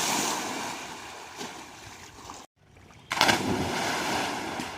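Water rushing and splashing in two bursts, each starting suddenly and dying away over a second or two.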